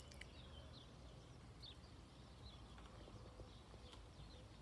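Near silence: faint small birds chirping, a few sharp clicks just after the start and about four seconds in, and a low steady rumble underneath.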